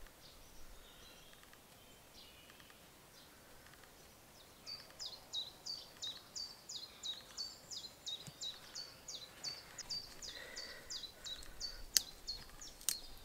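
A small woodland bird singing a long, even series of repeated high whistled notes, each sliding downward, about three a second, starting a few seconds in. Two sharp clicks sound near the end.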